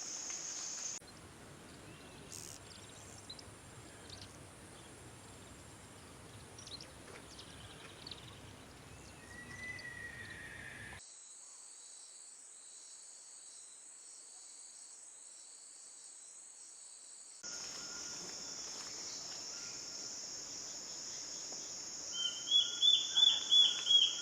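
Steady high-pitched insect chorus, with a short falling bird whistle about ten seconds in. Near the end a bird gives a loud run of about ten quick, evenly repeated notes, roughly four a second.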